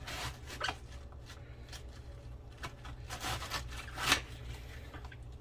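Kitchen knife slicing down through a raw head of cabbage: a series of short rasping cuts, the loudest about four seconds in.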